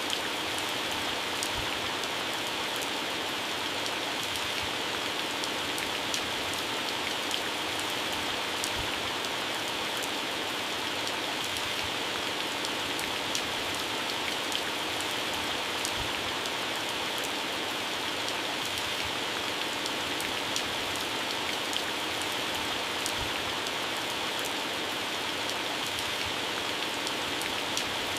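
Heavy rain falling steadily on garden plants and grass, a dense even hiss with the sharp taps of single drops hitting leaves scattered all through it.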